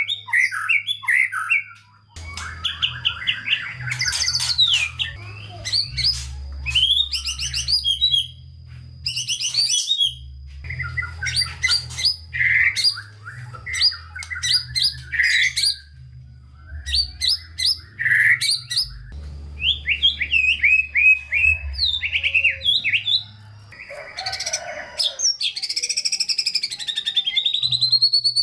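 White-rumped shama singing continuously: a long, varied song of fast trills, rising and falling whistles and rapid repeated notes, in phrases broken by short pauses, rich in mimicked fill-in phrases. A low hum runs underneath.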